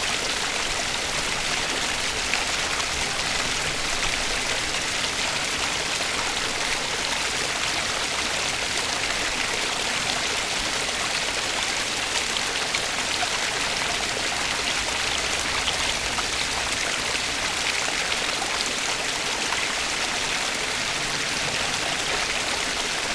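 Flowing stream water: a steady, even rushing hiss with small splashing ticks scattered through it.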